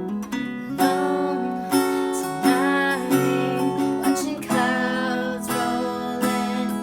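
Acoustic guitar strummed in steady chords, played live as part of a jam.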